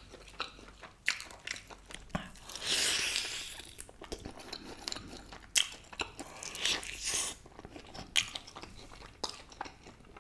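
Close-up chewing and biting of a barbecue-sauced roasted chicken wing: wet mouth sounds with irregular sharp clicks.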